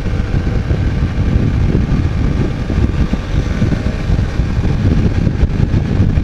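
Motorcycle on the move: the engine runs steadily under heavy wind buffeting on the microphone.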